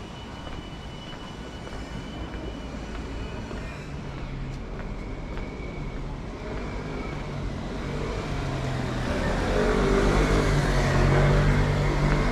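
Street traffic: a motor vehicle draws near and passes close, its engine and tyre noise getting louder from about eight seconds in, with a faint high whine in the first few seconds.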